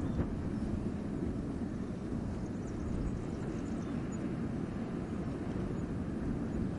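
Wind blowing through a winter forest: a steady, low rumbling rush with no breaks.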